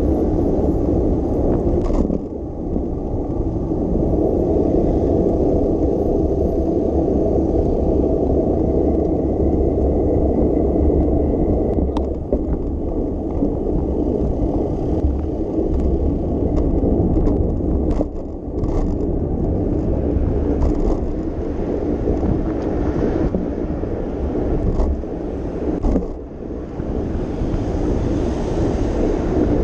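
Steady low rumble of wind on the microphone and tyre and road noise from a bicycle being ridden, with a few brief clicks and rattles.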